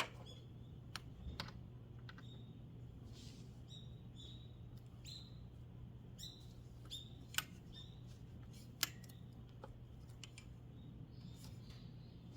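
Scattered sharp clicks and light taps, the two loudest about seven and nine seconds in, over a faint steady low hum, with short high chirps in between.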